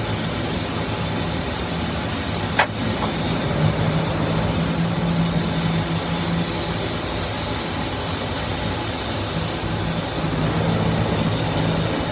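An engine running steadily with a constant low hum, with one sharp click about two and a half seconds in.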